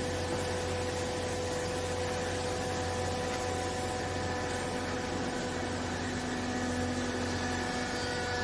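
Steady machine hum from a used-clothing baler's motor and hydraulic pump, with several steady tones; a lower tone joins about five seconds in and stops shortly before the end.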